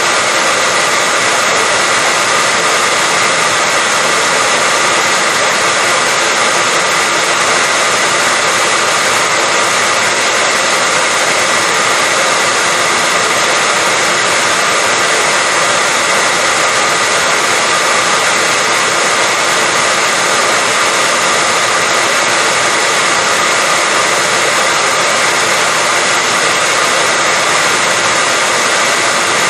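Hair dryer blowing in a steady, unchanging hiss with a faint motor whine, played as continuous white noise to lull a baby to sleep.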